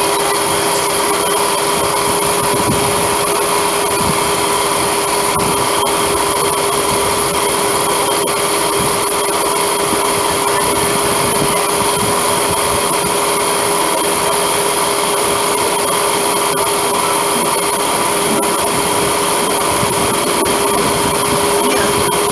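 Running noise of an electric multiple-unit local train, heard from inside at a slow speed. A steady whine lies over an even rush of noise, with an irregular low rumble from the wheels.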